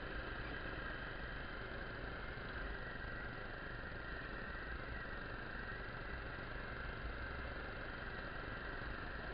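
Motorcycle engine running steadily, with a constant rush of noise.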